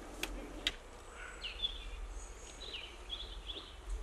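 Songbirds chirping in woodland: a run of short, high, down-curving notes. Two sharp clicks come within the first second.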